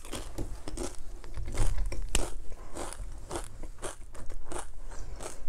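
A crunchy chip dipped in cheese dip being bitten and chewed, with a run of irregular sharp crunches.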